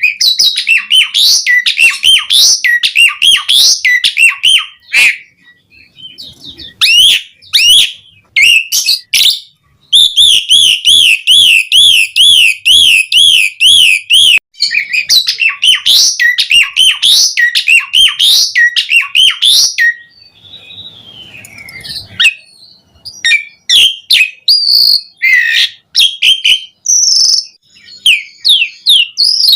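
Asian pied starling singing loudly in full song: a varied run of chattering and whistled phrases, thick with mimicked fill-in notes. About a third of the way through comes a rapid, even warbling trill lasting some four seconds. Past the middle there is a brief quieter pause before the chatter resumes.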